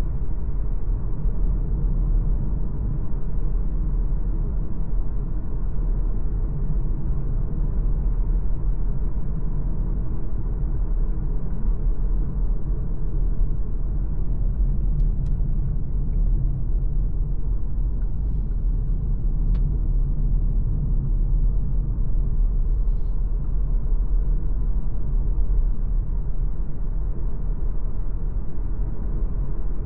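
MG ZS Hybrid+ driving at steady speed: a constant low rumble of the car on the road.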